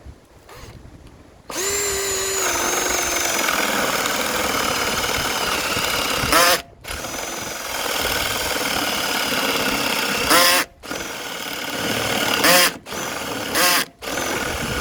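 Baur 20-volt cordless drill running on its high speed setting, boring with a spade bit: a steady motor whine that sags slightly in pitch under load and cuts out briefly about three times, each stop preceded by a short louder burst. The drill is short of power because its battery is nearly flat.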